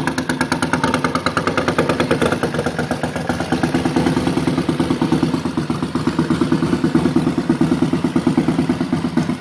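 1988 Ducati Paso 750's air-cooled 90-degree V-twin idling through straight pipes, a loud, steady, rapid pulsing exhaust beat.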